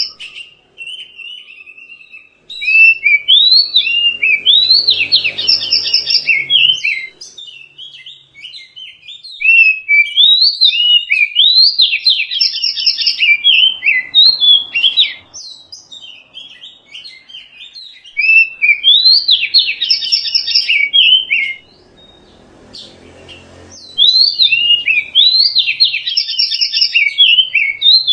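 Oriental magpie-robin singing: four long bouts of rapid, varied whistled and chattering notes, each lasting a few seconds, with short pauses between them.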